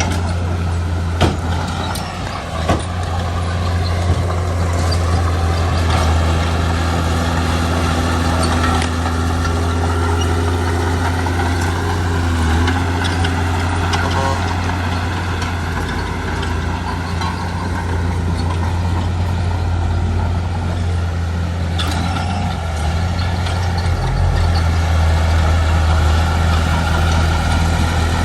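Heavy diesel engine of earthmoving machinery running steadily, with two sharp knocks in the first few seconds.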